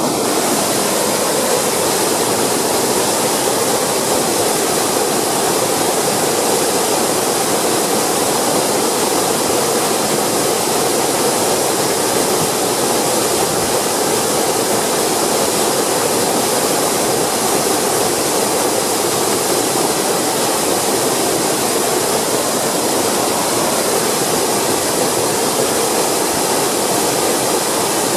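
Waterfall: water falling in a loud, steady, unbroken rush.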